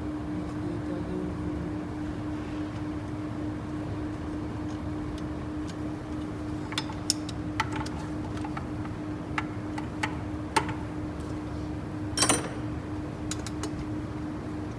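Hand tools clicking and tapping against metal engine parts during engine disassembly, with a louder clatter about twelve seconds in, over a steady hum.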